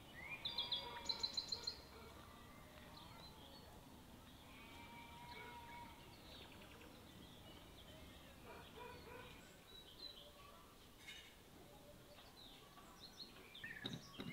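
Small birds chirping and calling, with brighter, quick-repeating trills in the first two seconds, then faint scattered birdsong.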